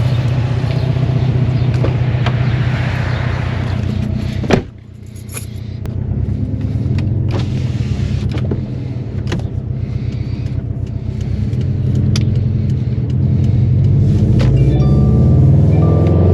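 2018 Subaru WRX STI's turbocharged flat-four, tuned and running on E85, driven hard. It runs under load, gives one sharp loud pop about four and a half seconds in as the level drops, then climbs in revs again with a few short clicks. It rises once more near the end.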